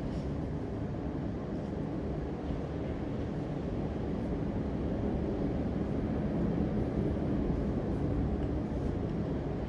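A steady low rumble of background noise, even throughout, with a few faint ticks.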